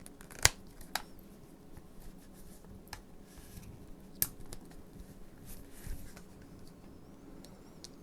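A few sharp clicks and light taps of equipment being handled on a workbench, the loudest about half a second in, with others spaced irregularly over the next few seconds.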